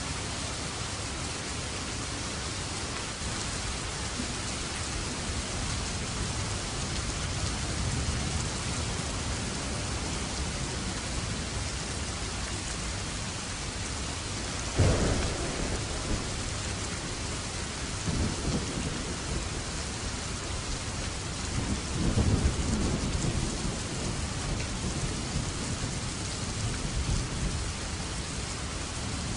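Steady heavy rain falling, with a sudden thunderclap about halfway through, followed by a couple of rolling rumbles of thunder.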